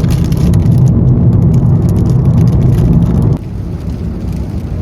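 Loud, low rumbling noise with scattered crackles, cutting off abruptly a little over three seconds in, leaving a quieter rumble.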